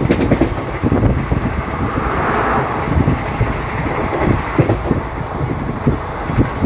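Moving passenger train heard from on board: a steady low rumble of wheels on the rails with frequent irregular knocks and clatter, and wind buffeting the microphone.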